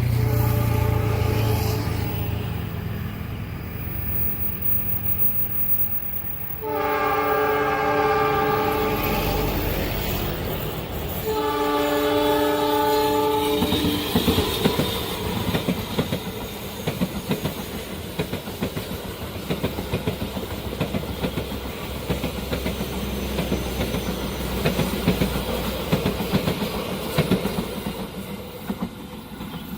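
Train horn blown twice, each blast about two and a half seconds of a several-note chord. The train then passes with a steady rumble and a rhythmic clickety-clack of wheels over the rail joints. A low rumble comes before the horn.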